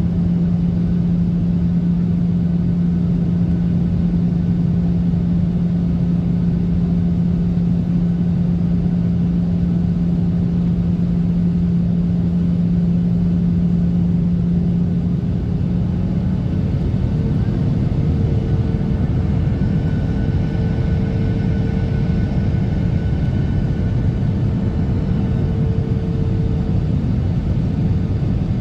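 Boeing 737-800 cabin noise heard from a window seat: the CFM56-7B engines' steady drone over the rush of airflow. About halfway through the low engine hum drops away and a slightly higher tone comes in, a change in engine power.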